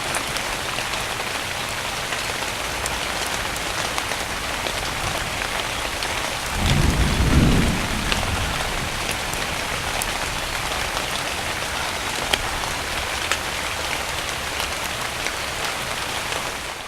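Steady rain falling, with scattered sharp drop ticks. A short low rumble of thunder swells and dies away about halfway through.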